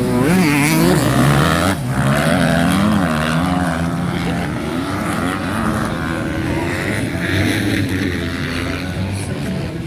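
Motocross motorcycle engines racing, their pitch rising and falling again and again as the riders work the throttle.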